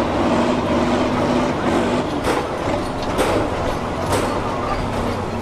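Kirovets K-700 tractor's diesel engine running steadily, with three sharp knocks about a second apart in the middle.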